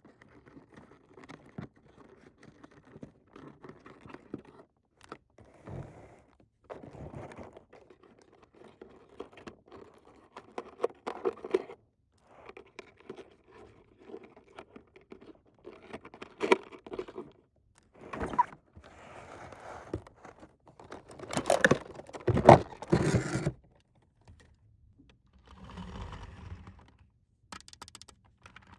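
Small plastic toy pieces being handled and unpacked: irregular clicks, taps and short scrapes, with a louder run of scraping and knocks about three quarters of the way through.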